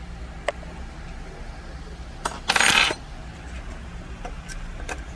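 Small metal tools and parts clicking and clattering on a phone repair bench: a few light clicks, and about two and a half seconds in, one loud, brief metallic clatter. A steady low hum runs underneath.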